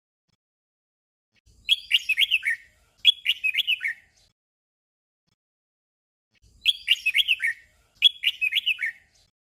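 Red-whiskered bulbul singing its short doubled song. There are two pairs of quick warbled phrases, each about a second long with notes dropping in pitch, and a pause of a couple of seconds between the pairs.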